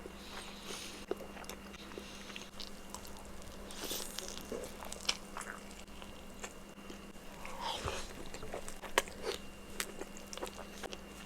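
A person biting into and chewing a chile relleno burrito close to the microphone: fairly quiet mouth sounds with scattered short clicks and smacks.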